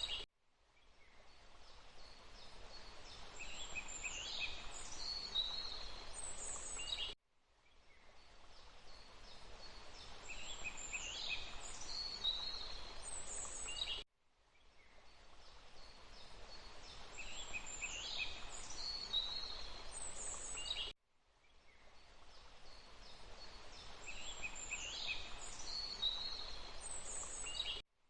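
Forest ambience: a steady rushing hiss with a few high bird calls in the middle of each pass. It is a short loop that cuts out abruptly and fades back in about every seven seconds, four times over.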